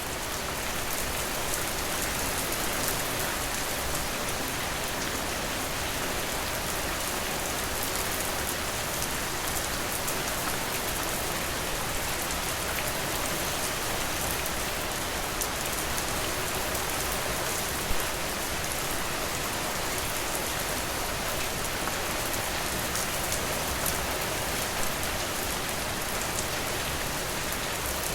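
Steady rain falling, a dense even hiss of many drops with fine ticks of individual raindrops. A single slightly louder drop or tap stands out about 18 seconds in.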